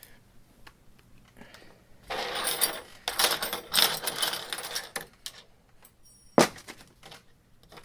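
Small metal hand tools and spare screws clinking and rattling together as they are gathered up, then one sharp knock near the end.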